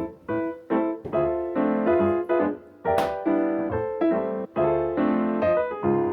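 Background piano music: a melody of struck notes, each ringing and fading. About three seconds in, a brief hiss cuts across it.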